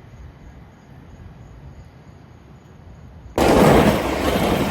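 Faint outdoor background, then about three and a half seconds in an abrupt cut to a much louder recording of a passing train.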